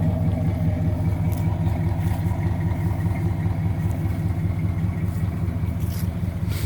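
1983 Pontiac Firebird's small-block V8 idling steadily, heard at the exhaust: quiet, with a nice little tone.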